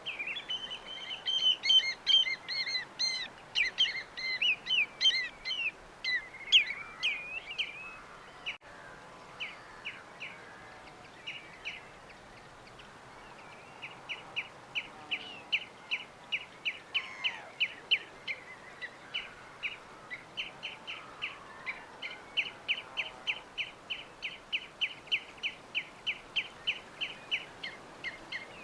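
Small birds chirping: a busy flurry of overlapping chirps for the first several seconds, then after a short lull a long run of quick, evenly repeated chirps, about four a second. A faint steady hiss lies underneath.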